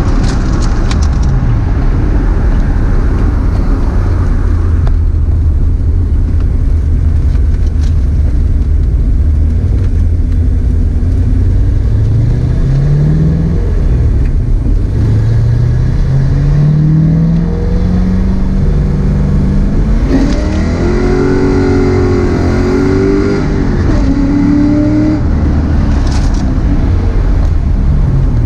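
Car engine and road noise heard from inside the cabin while driving. The engine's pitch rises twice near the middle as the car accelerates, then settles back into a steady drone.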